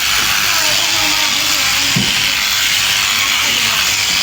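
Electric sheep shears running steadily, cutting through fleece, with a brief low knock about halfway.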